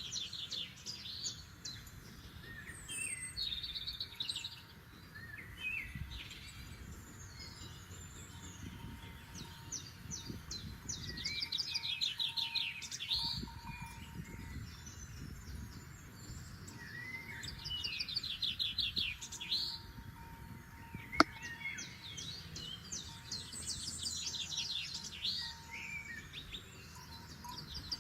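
Forest songbirds singing: short phrases of rapid, high trilled notes, repeated every few seconds, over a faint low background hiss. A single sharp click about three-quarters of the way through.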